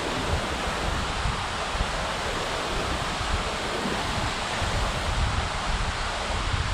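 Steady rush of a waterfall's cascading water, with wind buffeting the microphone in uneven low rumbles.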